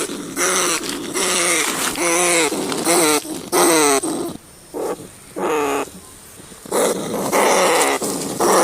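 Rats squealing: a quick series of short, pitched cries that bend in pitch, with a pause of two to three seconds midway before the calls start again.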